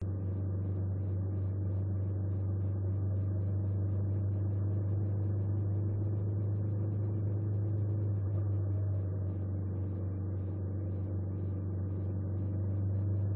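Engine running at a steady speed, a low even drone that does not rise or fall.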